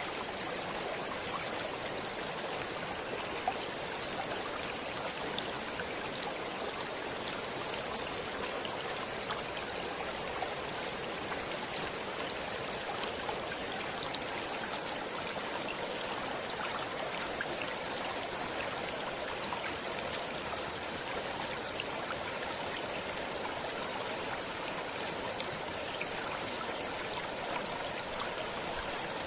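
Flowing stream water running steadily, an even rushing hiss with small splashes and droplet ticks throughout.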